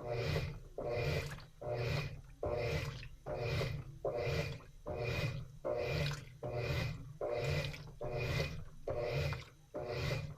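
Washing machine agitating the load in water during the wash cycle: a steady, even rhythm of churning strokes, about one and a half to two a second.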